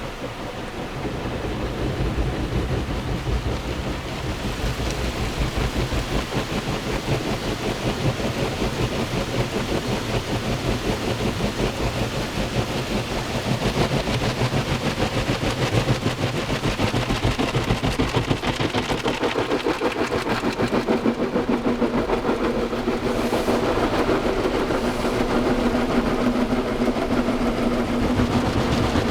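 Automatic car wash machine running over a car: a continuous rough mechanical rumble, with a steady motor hum joining about two-thirds of the way through.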